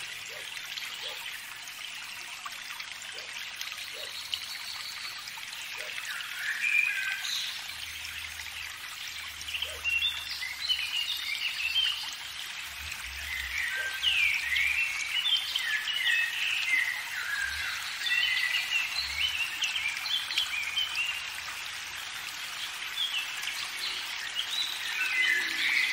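Songbirds singing, many short chirping and warbling phrases one after another, over a steady outdoor hiss.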